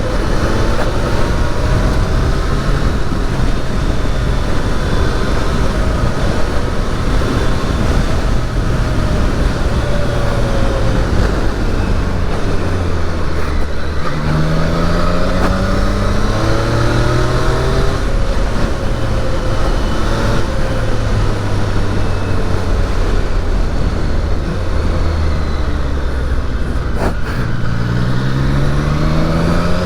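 Triumph Daytona 660's inline three-cylinder engine running on the road, its pitch climbing in steps as it accelerates through the gears about halfway through and again near the end.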